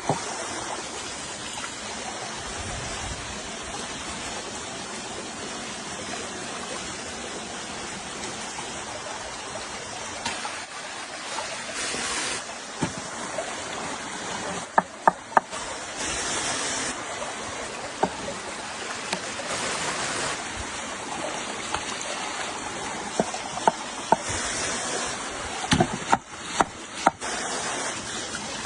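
Steady rush of flowing river water, with a few sharp clicks and knocks now and then, several in a cluster near the end.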